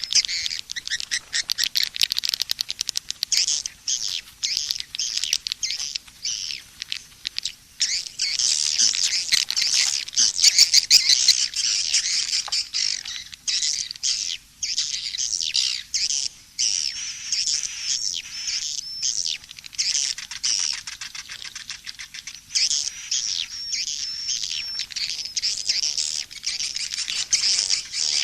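Edible-nest swiftlets chirping and twittering in a dense, unbroken stream of rapid high calls, mixed with fast clicking trills, as in a swiftlet lure-call track for swiftlet houses. The chorus is busiest and loudest about a third of the way in.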